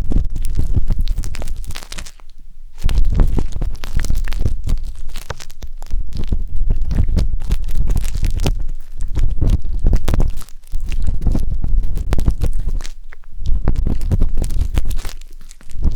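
Wooden skewer scraping and rubbing inside the silicone ear of a 3Dio binaural microphone: loud, close scratching with a heavy low rumble, in runs of quick strokes broken by short pauses, the first about two seconds in.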